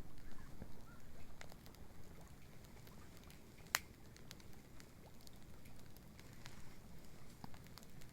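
Wood bonfire crackling with sparse, irregular pops and one sharp loud snap a little before halfway, over a low steady rumble.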